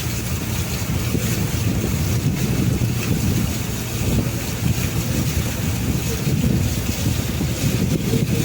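River boat's engine running steadily, a low hum, with wind buffeting the microphone and water noise.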